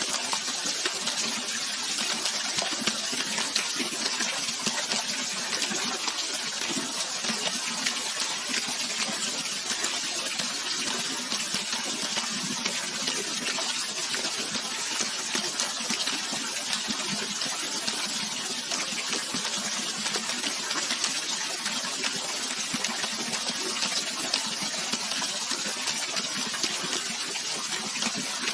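Steady, even rush of flowing water, hiss-like and bright, with no breaks or changes.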